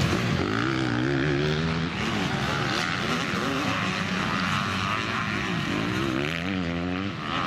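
Several motocross bikes' engines revving, their pitch rising and falling repeatedly as they are ridden around the track.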